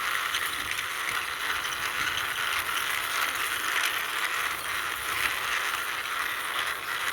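Plastic toy cement mixer truck pushed by hand, its small wheels rolling with a steady rattling clatter.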